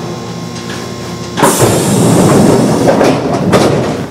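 Kintetsu 8800 series electric train at a station stop: a sudden loud rush of air and rumbling starts about a second and a half in, lasts about two and a half seconds, then dies away.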